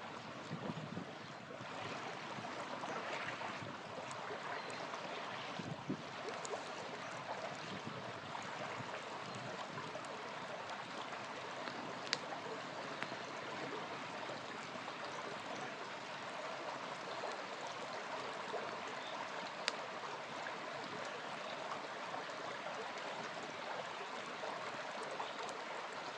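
Small river flowing steadily, with a few sharp pops from a crackling campfire, the clearest about twelve and twenty seconds in.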